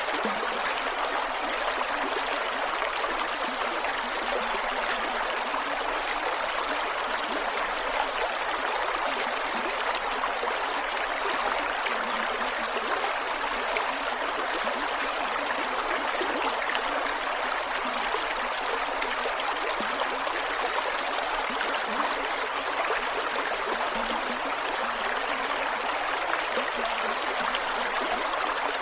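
Creek water flowing steadily over rocks, a constant rushing with small gurgles and trickles.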